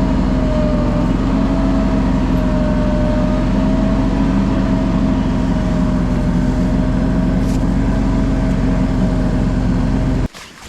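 Engine running steadily at a constant speed, cutting off abruptly near the end.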